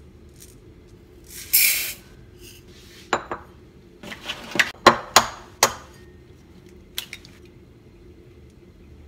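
Dry rice poured from a plastic measuring cup into a rice cooker pot: a short rushing hiss. Then a run of sharp taps and clicks as a ceramic bowl is handled and an egg is cracked on its rim, over a steady low hum.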